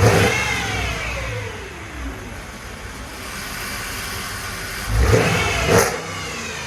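Mercedes-Benz CLS V8 with its catalytic converters removed and the mufflers still on, revved while parked. A rev falls back toward idle at the start, the engine idles, then it is blipped twice in quick succession about five seconds in.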